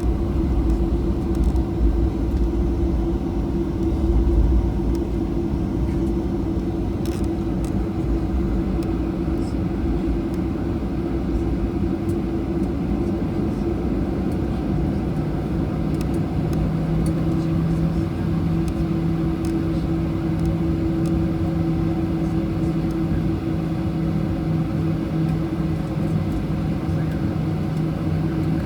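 Cabin noise inside a Boeing 737-800 taxiing after landing: the steady hum of the idling engines and a low rumble from the wheels, heavier in the first few seconds. A second low drone sets in about halfway.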